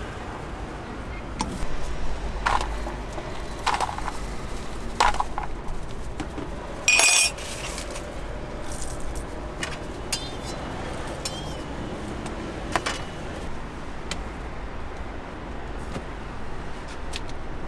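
Street background with a steady low traffic rumble and scattered short clinks and knocks of small hard objects. About seven seconds in there is a short, sharp, high-pitched squeal lasting about half a second.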